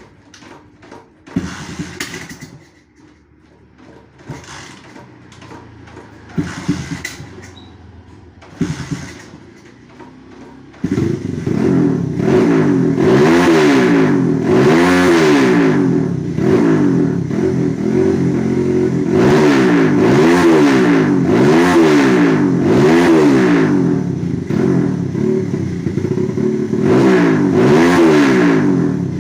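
Honda GL100 motorcycle's single-cylinder four-stroke engine, bored up and breathing through an aftermarket Fanterra exhaust: a few clunks, then the engine starts about eleven seconds in and is revved again and again, the pitch rising and falling with each blip of the throttle.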